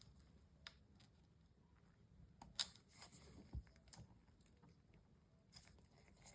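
Faint, sparse clicks and taps of small tools and parts being handled during a laptop repair, the sharpest about two and a half seconds in, with a soft low thump a second later.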